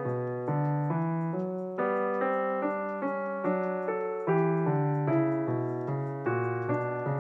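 Background piano music: a slow melody of single struck notes, each fading before the next, about two notes a second.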